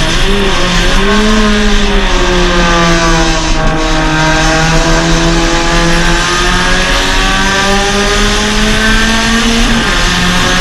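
Suzuki Swift Sport race car's 1.6-litre four-cylinder engine heard on board at race pace, the revs climbing and dipping through the corners. A brief rush of noise comes about three and a half seconds in, and the revs drop near the end.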